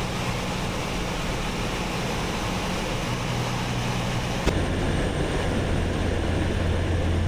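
Steady drone of a light sightseeing plane's engine. About four and a half seconds in there is a click and the engine note drops to a lower, stronger hum.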